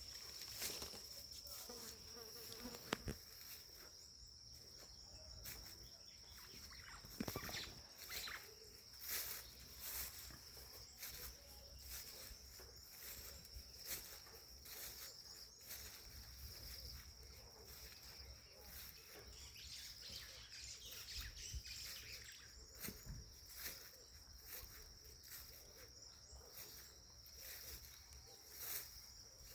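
Insects, crickets or similar, trilling in one steady high-pitched tone, with scattered soft clicks and rustles.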